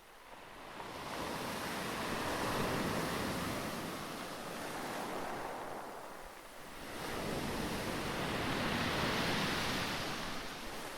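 Rough sea: waves surging and breaking, the noise swelling and easing twice in slow surges.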